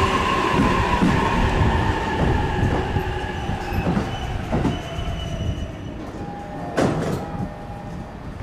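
Electric train on the JR Tokaido Line moving through the station, its steady high-pitched wheel and motor whine fading over the first few seconds as the rumble dies away. A few knocks of wheels over rail joints come in the second half.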